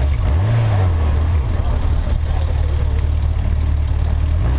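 Yamaha XJ600S Diversion's air-cooled inline-four running at low revs as the bike rolls slowly, with a brief rise and fall in engine pitch about half a second in. Faint crowd voices beneath it.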